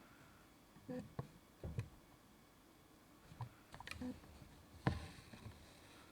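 Hand embroidery: a needle poking through fabric and thread being drawn through, heard as a few soft, irregular taps and clicks, the sharpest about five seconds in.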